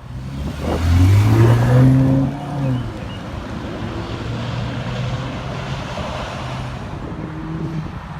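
2014 BMW 428i's turbocharged four-cylinder through a muffler- and resonator-deleted exhaust, revving up with a rising pitch for about two seconds, then dropping back to a steady, quieter drone.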